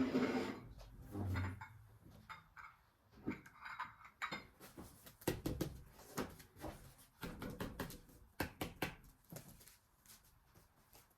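Kitchen handling sounds: irregular clicks, taps and knocks of dishes and utensils being set down and moved, with some soft rustling.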